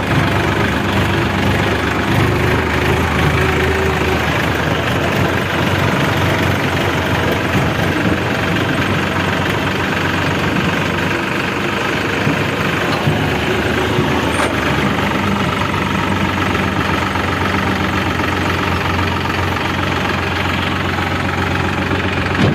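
New Holland tractor's diesel engine running steadily at an even, unchanging speed.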